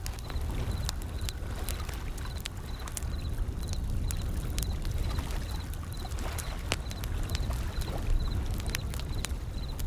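Wood fire crackling with many sharp pops over a steady low rumble of ocean surf. A faint high chirp repeats about twice a second throughout.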